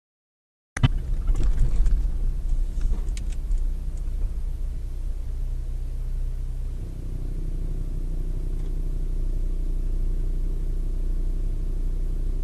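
Car engine and road rumble heard from a moving vehicle through a dashcam microphone. There are a few sharp knocks in the first few seconds, and the engine note steps up about seven seconds in.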